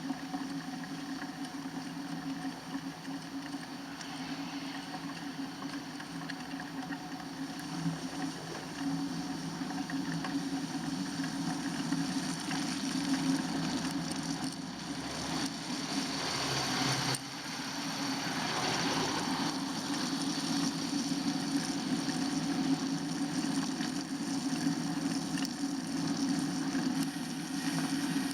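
Steady riding noise on a winter bike ride: a continuous hum over road and wind hiss, growing louder and rougher for a few seconds around the middle.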